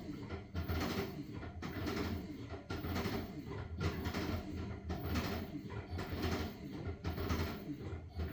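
LG washing machine washing a load of blankets: a swish of water and fabric about once a second over a steady low motor hum.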